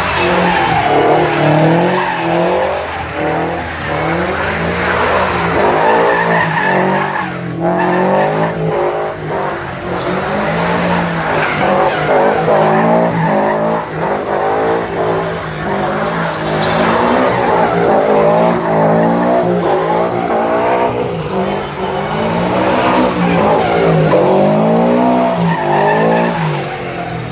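Car tyres squealing, the pitch wavering up and down, over a steadily running car engine.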